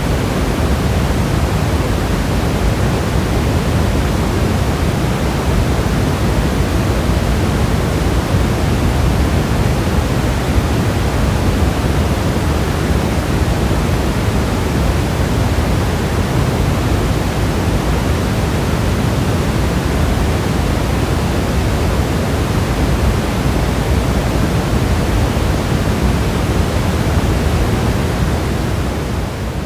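Steady, heavy rain as an even hiss with no separate drops standing out, beginning to fade out near the end.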